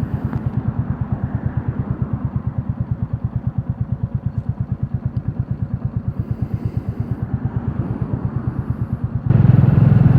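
Royal Enfield Classic 350's single-cylinder engine running at a steady, even beat while riding. About a second before the end it suddenly gets louder.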